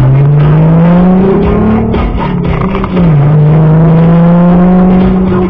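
Car engine accelerating: its pitch rises for about two seconds, drops at a gear change about three seconds in, then holds steady.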